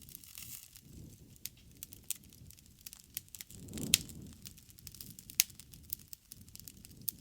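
Bonfire of burning wood crackling: irregular sharp pops and snaps over a low rumble of flames. The flames swell about four seconds in, with the loudest pop, and another strong pop follows about a second and a half later.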